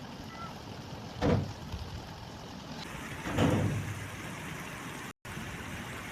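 Steady wash of rain and running water, with two brief louder whooshes, about a second in and about three and a half seconds in. The sound cuts out for an instant near the end.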